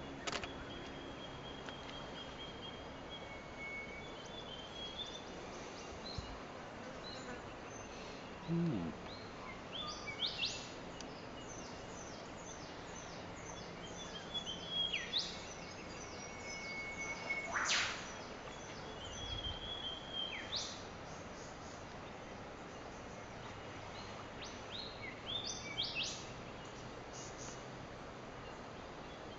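Scattered calls of Australian bush birds, magpies among them: short whistles, chirps and sharp sweeping notes over a steady background hiss.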